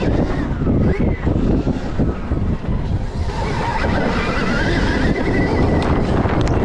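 Stark Varg electric dirt bike being ridden, wind buffeting the microphone over a heavy rumble. The electric motor's whine rises and falls in pitch with speed, clearest in the second half.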